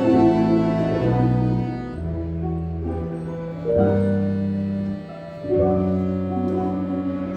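A Russian folk-instrument orchestra playing long held chords over bass notes, the chords changing every second or two, with a brief softer moment about five seconds in.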